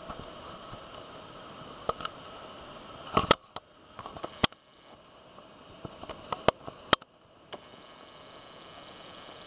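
A steady hiss broken by a handful of sharp knocks and clicks, about six of them through the middle, the loudest a cluster a little past three seconds in.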